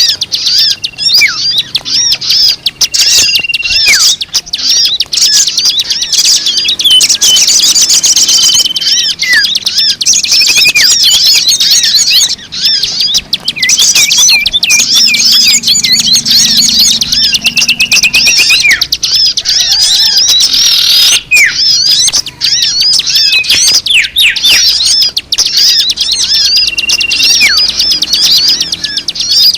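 Dense chorus of many small birds chirping and twittering rapidly, with short high whistled notes mixed in: a bird-lure (pemikat) recording of mixed bird calls, played to attract wild birds.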